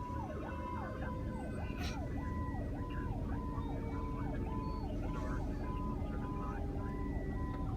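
Emergency vehicle's electronic siren on a fast yelp, rising, holding and falling about one and a half times a second, heard over a radio channel with a steady low hum and noise beneath it; it grows fainter toward the end.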